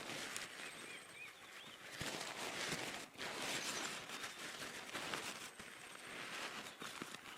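Outdoor forest ambience: a steady patter of many small drops, with faint bird chirps about a second in.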